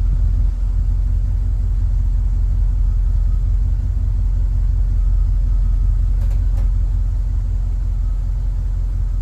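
A loud, steady low rumble, engine-like, with no change in pitch.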